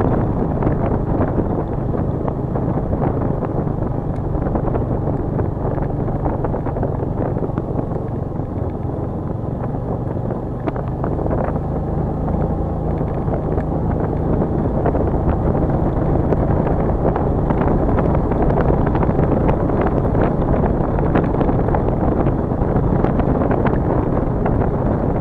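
A vehicle engine running steadily while on the move, with wind buffeting the microphone.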